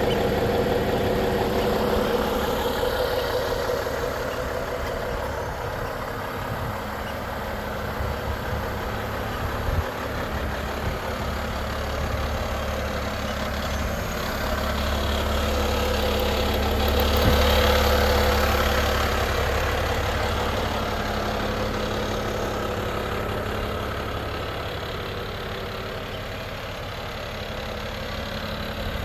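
Volvo FH 500 truck's 13-litre six-cylinder diesel engine idling steadily, growing somewhat louder for a few seconds in the middle.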